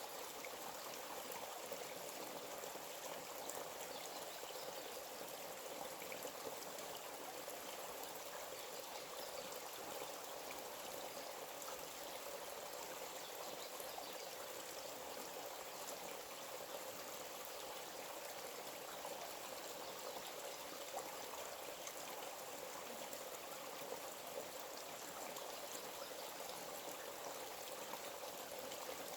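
A small forest stream running steadily, an even trickling rush of water with no change across the stretch.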